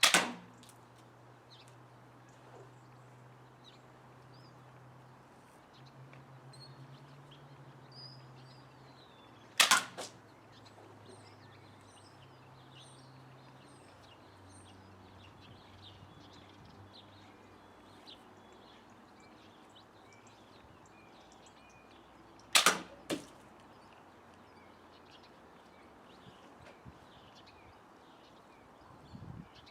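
Three shots from a handmade wooden slingshot pistol firing 9mm steel ball bearings, about ten and then thirteen seconds apart. Each is a sharp snap followed a split second later by a smaller knock as the ball strikes a water-filled can. Faint birdsong in the background.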